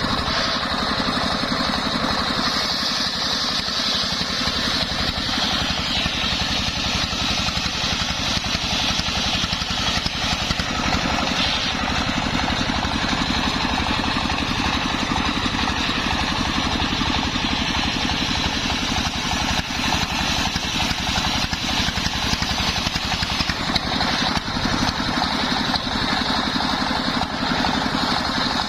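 Engine of a home-built circular saw rig running steadily, with a high hiss that swells and fades from time to time.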